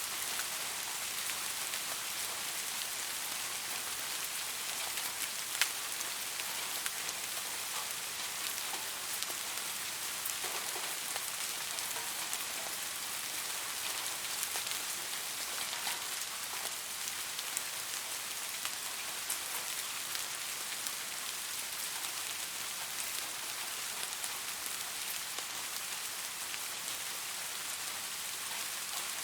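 Steady rain falling on a surface: an even hiss with scattered individual drop ticks, one sharper tick about five and a half seconds in.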